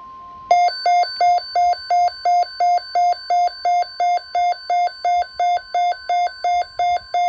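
NOAA Weather Radio alert: the steady 1050 Hz warning tone that comes before a watch or warning, with a weather radio receiver's alarm beeping about three times a second over it, loudly.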